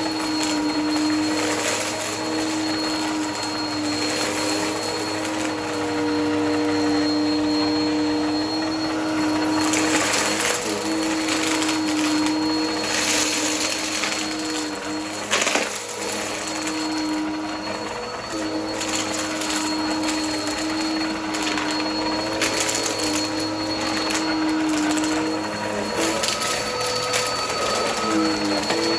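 Upright vacuum cleaner running continuously with a steady motor hum whose pitch dips now and then as it is pushed through passes. A rushing suction hiss swells and fades over it.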